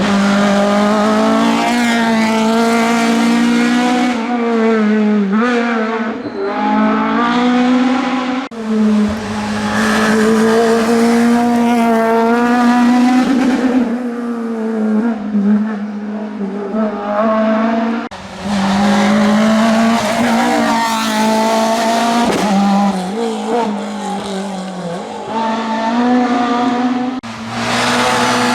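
Rally cars driven flat out on a special stage, one after another: engines revving hard and rising and falling through gear changes, with tyres squealing in the corners.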